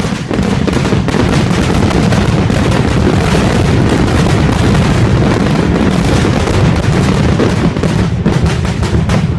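Fireworks going off in a dense, continuous barrage: many booms and crackles overlap with no gaps between them.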